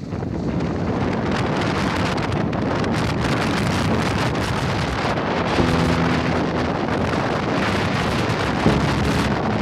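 Wind buffeting the microphone aboard a sailing yacht, with a steady rush of wind and water. Two brief low pitched sounds cut in, one about halfway through and one near the end.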